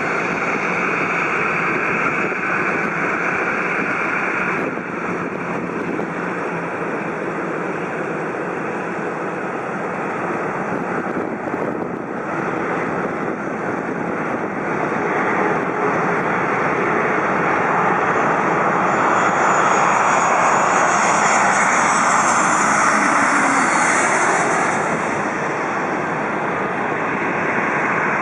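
Boeing 737-700's CFM56-7B jet engines on landing approach, a steady roar that grows louder as the airliner passes close by, with a high engine whine that drops in pitch as it goes past, then fades a little near the end.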